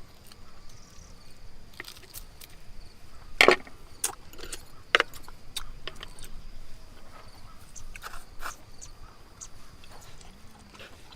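Scattered sharp clicks and knocks, the loudest about three and a half and five seconds in, over a steady high insect trill.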